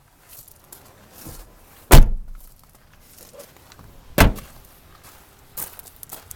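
Doors of a 2006 Toyota Tacoma access-cab pickup being shut: two solid slams about two seconds apart, the first the louder, then a lighter knock near the end.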